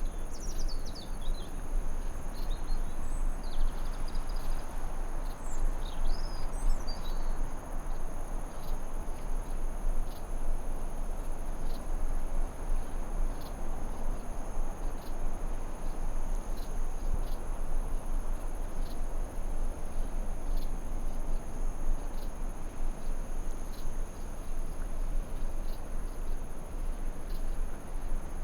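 Forest ambience: a steady high-pitched insect drone over a constant rushing noise wash, with a few brief bird chirps in the first several seconds.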